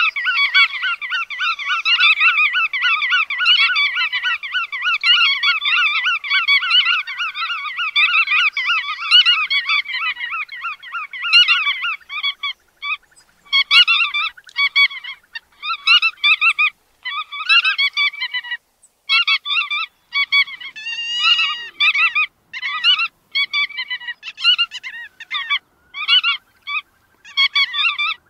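Godwits calling: a dense, rapid chatter of repeated notes for about the first twelve seconds, then short separate bursts of calls with brief gaps between them.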